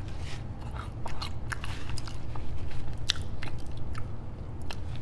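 A person chewing a mouthful of crinkle-cut fries close to the microphone, with many small mouth clicks and crunches scattered throughout.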